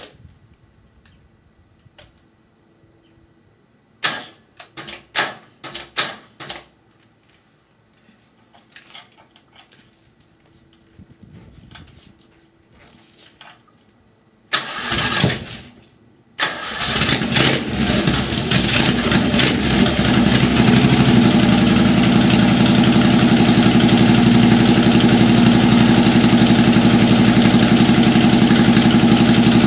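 Honda GX670 V-twin with open-trumpet twin carburettors being started. It is cranked in a few short bursts about four seconds in and again for about a second and a half near the middle, then catches, revs up briefly and settles into a steady loud run.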